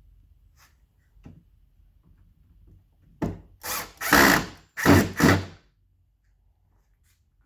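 Power drill running in five short bursts close together, the trigger pulled and released as screws are driven into the cabinet's corner pieces.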